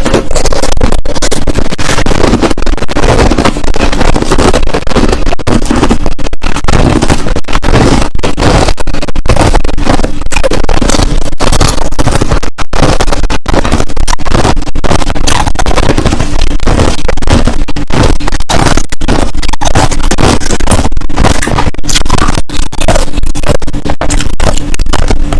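Crushed ice being chewed close to the microphone: loud, dense crunching and cracking, with a few short pauses between bites.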